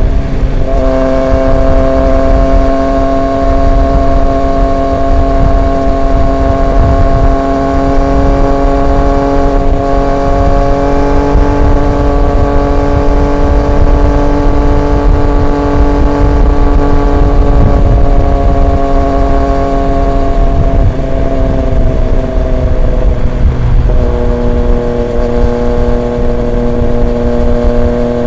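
Triumph Street Triple 765 RX's three-cylinder engine through an SC Project S1 exhaust, holding a steady cruising note that slowly rises, then eases lower after about twenty seconds. The note breaks briefly near the start and again about 24 seconds in.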